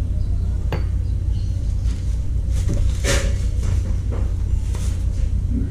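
A steady low rumble with a few sharp knocks: one about a second in, one around three seconds in with a short rush of noise, and one near the end.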